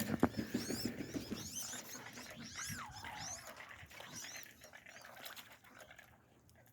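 Aviary waterfowl calling: many high whistles and chirps overlapping, busiest in the first few seconds and growing fainter toward the end.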